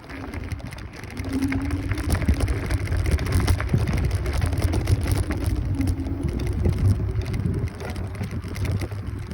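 Kaabo Wolf Warrior 11 Pro electric scooter riding along: wind buffeting the microphone and road rumble, with many small ticks from the road surface. A faint motor whine rises in pitch, and everything gets louder about a second in as the scooter picks up speed.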